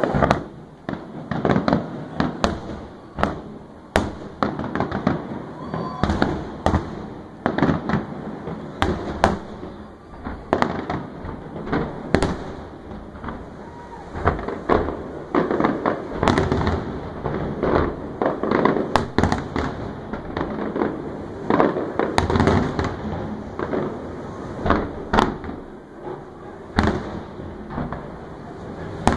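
Fireworks display: aerial shells bursting in quick, irregular succession, with sharp bangs over a continuous low booming rumble.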